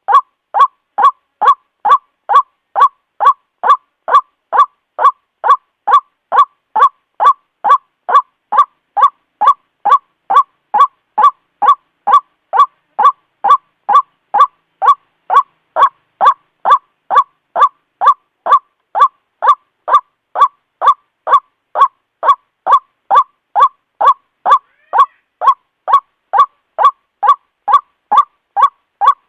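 White-breasted waterhen repeating a short, honking 'kwak' call in a steady, unbroken series of about two calls a second. This is the ruak-ruak lure call played to draw waterhens in.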